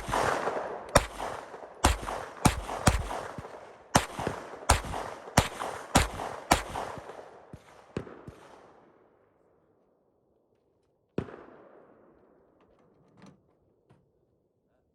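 Rifle shots in a quick string, about eleven over eight seconds, each trailing off in an echo, then one more shot about eleven seconds in.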